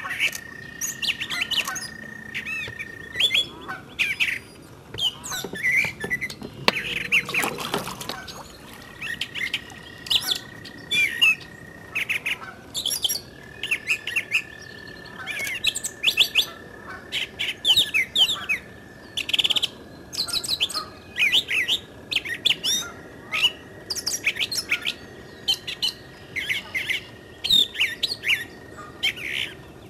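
Songbirds chirping and calling in quick, varied phrases, with a long, steady high whistling tone that drops out and returns several times. A short rustling noise comes about seven seconds in.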